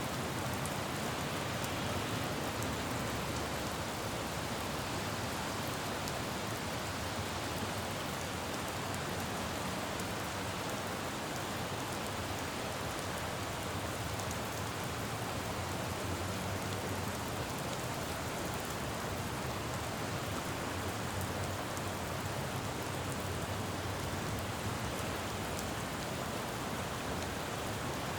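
Steady rain falling on a city road, with a faint low rumble of distant traffic underneath.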